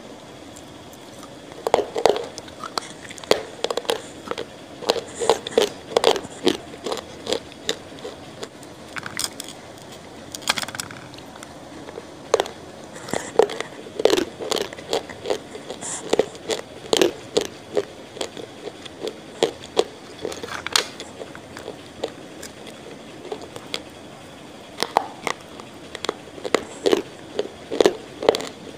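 A person chewing food with a microphone right at the mouth: irregular clusters of short clicks and smacks, broken by pauses of a second or two.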